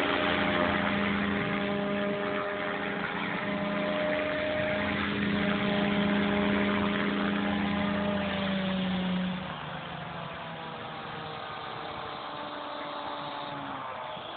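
Blade 3D radio-controlled helicopter hovering: a steady motor and rotor whine over the rush of heavy wind. About nine seconds in the pitch sags and the whine drops to a quieter level.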